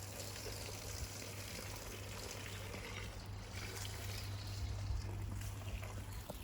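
Water trickling steadily into a small garden fountain, with a steady low hum underneath.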